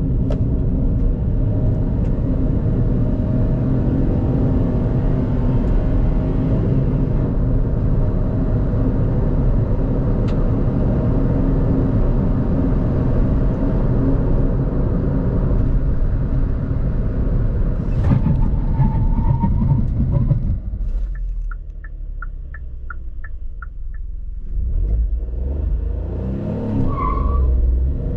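Kia Picanto GT's 1.0-litre turbo three-cylinder engine running under load as the car is driven, steady and loud for about twenty seconds. It then eases off and goes quieter, with a short run of quick, even clicks, before building again near the end.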